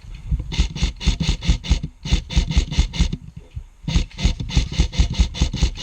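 Airsoft electric rifle firing rapid strings of shots, about six a second, in three bursts with short pauses between them; the last burst runs on through the end.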